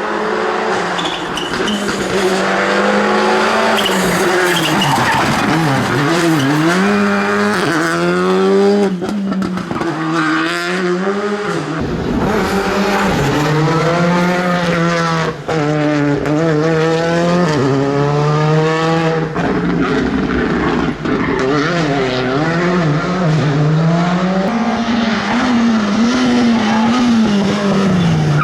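Rally car engine revving hard on a mountain stage. The pitch climbs and drops again and again as the driver accelerates, changes gear and lifts off for corners.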